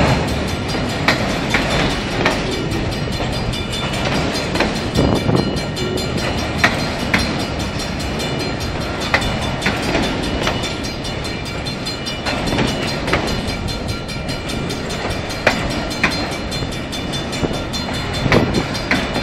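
Autorack freight cars rolling past close by: a steady rumble of steel wheels on rail, broken by many scattered sharp clacks and clanks.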